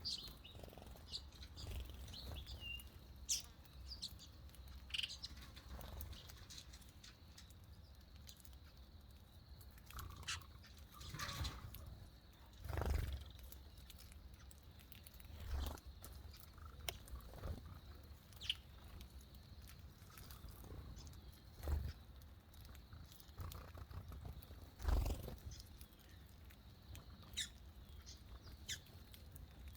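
Birds calling: scattered short chirps, with a few brief low sounds and clicks now and then over a faint steady background.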